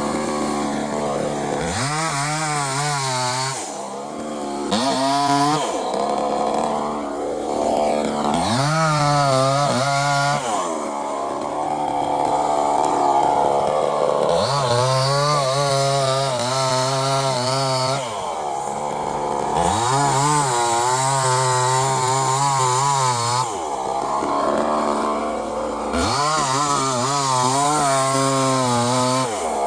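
Chainsaw engine running at high revs and repeatedly cutting. Its pitch drops and wavers as the chain bites, then rises again between cuts, about five or six times over the stretch.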